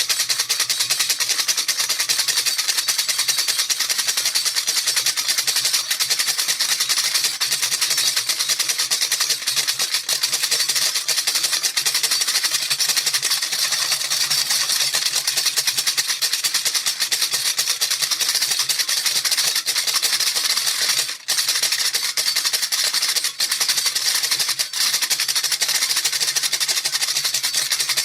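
A rattle shaken rapidly and without pause, its beads making a dense, steady, hissy rattle. There is a brief break about 21 seconds in.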